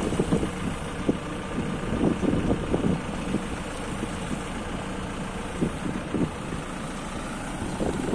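MST M644 Plus backhoe loader's diesel engine idling steadily, with a few light knocks over the hum.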